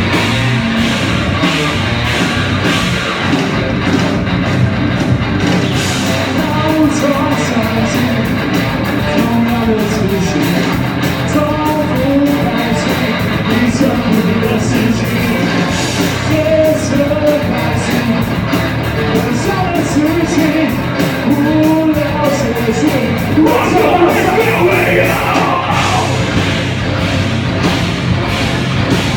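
Live rock band playing loud heavy rock, with pounding drums and a sung, partly shouted lead vocal that comes in a few seconds in.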